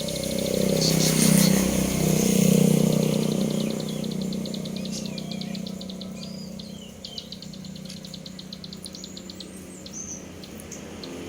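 A young cemblek sawah songbird practising its rattling 'ngebrem' song: fast runs of ticking notes broken by short swooping whistles. A motor vehicle drones low underneath, loudest in the first few seconds and then fading.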